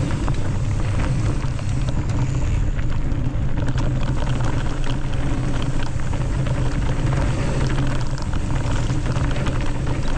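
A mountain bike riding fast down a dry, dusty dirt trail: a steady heavy rumble of wind on the microphone and tyres on dirt, with many small clicks and rattles from gravel and the bike throughout.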